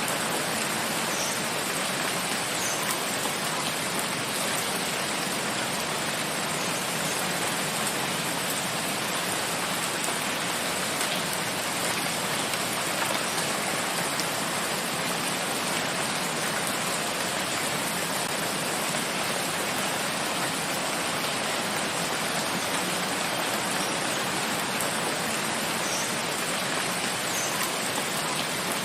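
Steady rain falling in a forest: an even, unbroken hiss of rain.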